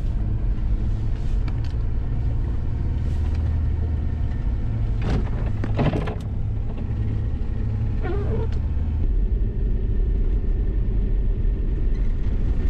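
Ford Explorer's engine running steadily under load as the car ploughs through deep snow, a low drone heard from inside the cabin. A couple of brief swishing noises come about five and six seconds in.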